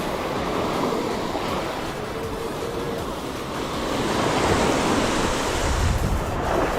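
Sea waves washing on a sandy beach, with a bigger wave rising and breaking about four seconds in.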